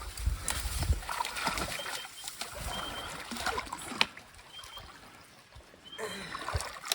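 Crackling and rustling of dense scrub being pushed through on foot, with twigs snapping and footsteps. A bird's short high note sounds about four times.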